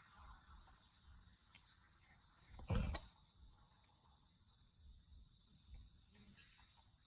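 Steady high-pitched drone of insects, with a single brief thump or rustle about three seconds in that is the loudest sound.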